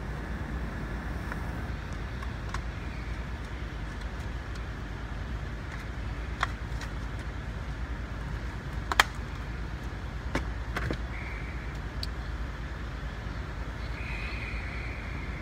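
Steady low rumble of a Chevy Tahoe running at idle, heard inside the cabin, with several sharp clicks, the loudest about nine seconds in, and two short high tones near the end.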